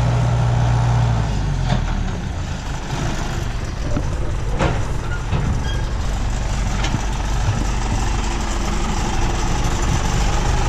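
Combine harvester running while harvesting soybeans, heard from the cab. A steady engine tone fades out about a second and a half in, leaving a continuous rumble and rattle, with a few sharp clicks.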